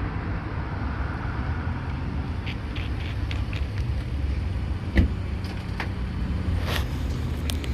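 Steady low rumble of a motor vehicle engine, with scattered light clicks and one sharp knock about five seconds in.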